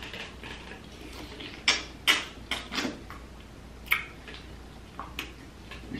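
Close-miked chewing of a cooked tiger prawn, with wet mouth clicks and crackles, about half a dozen sharp ones spread through the middle of the chewing.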